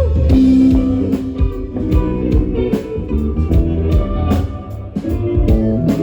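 Live rock band playing an instrumental intro: electric guitars with bass and drum kit, a steady beat with regular drum hits.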